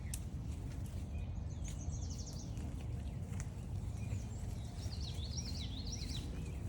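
Songbirds singing over a steady low rumble of walking on a trail: a quick high run of repeated notes about two seconds in, then a varied, jumbled warbling phrase near the end.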